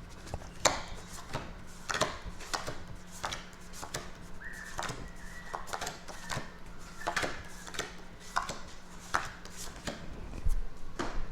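Tarot cards being shuffled and handled by hand: a run of irregular crisp snaps and taps, about one or two a second.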